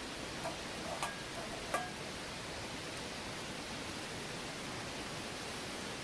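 Steady rush of a flowing river, with a few faint clicks in the first two seconds.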